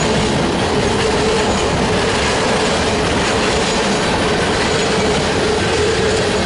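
Union Pacific mixed freight train's cars rolling past close by: a loud, steady rumble and clatter of wheels on rail, with a thin steady tone running through it.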